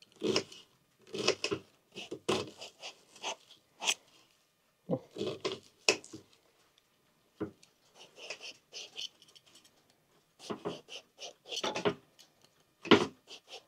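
Irregular short scraping and cutting strokes of an eggplant being worked by hand with a kitchen tool.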